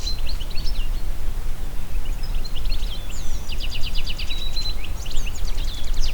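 Wind in the trees with a steady low rumble, under small songbirds singing quick runs of high, rapidly repeated notes. The song pauses a second or two in, then comes back as a dense trill and more calls toward the end.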